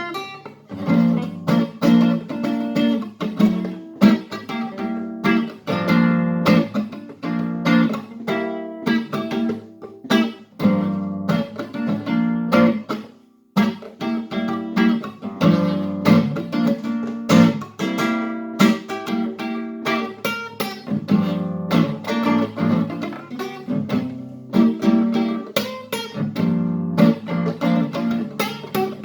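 Acoustic guitar strummed in a steady rhythm of chords, with a brief break about thirteen seconds in.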